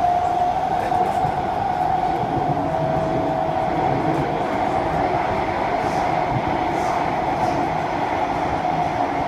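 SMRT C151A metro train running between stations, heard from inside the carriage: a steady rumble of wheels on track with a constant high whine held throughout.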